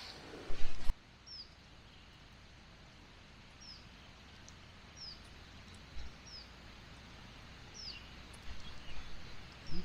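A small bird repeats a short, high chirp that falls in pitch, every second or two, over a steady background hiss. A few loud knocks come about half a second in, and more knocking and handling sounds build up near the end.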